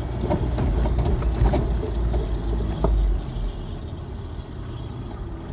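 Cab interior of a 1992 Ford Ranger pickup on the move: steady engine and road rumble with a few light clicks. It is louder for the first three seconds, then eases off.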